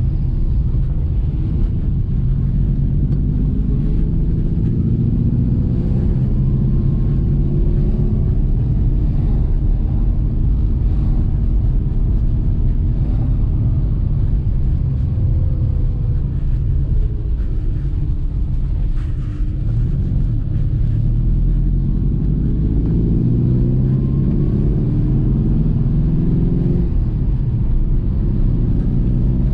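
1963 Lancia Flavia's flat-four engine running under way, with road rumble; its pitch rises and falls as the car changes speed and gear, with a brief drop about nineteen seconds in.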